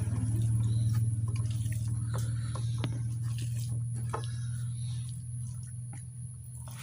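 Wet eating sounds, mouth clicks and soft squishes of chewing rice and mutton curry, scattered over a steady low hum.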